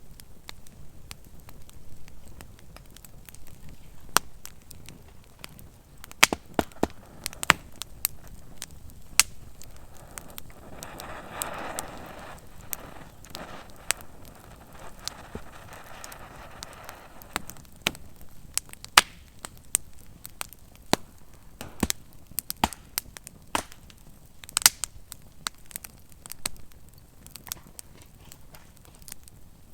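Wood campfire crackling, with sharp irregular pops throughout and a soft rushing hiss for several seconds in the middle.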